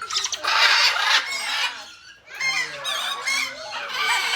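Parrots squawking loudly at close range: a harsh burst in the first second, then a run of shorter squawks from about halfway through.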